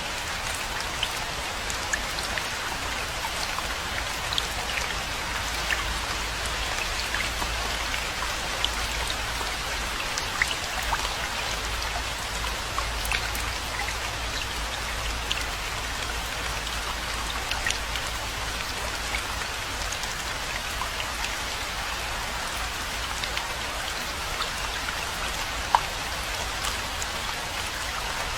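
Steady rainfall: an even hiss with many separate drops ticking through it over a low, steady rumble, and one sharper drop hit near the end.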